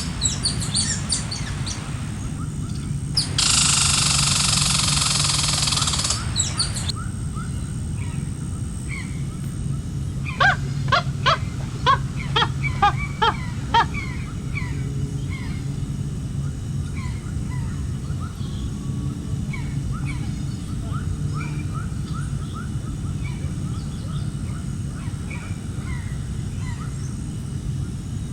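Birds calling outdoors: a quick run of about ten loud, sharp calls near the middle, with many small chirps scattered through the rest, over a steady low rumble. Two bursts of loud rushing hiss at the start.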